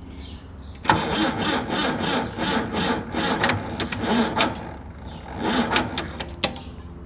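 Ford 172 four-cylinder forklift engine, running on propane, cranked over by its starter on weak batteries. It cranks for about five and a half seconds, starting and stopping abruptly, without catching: the batteries are too weak to start it.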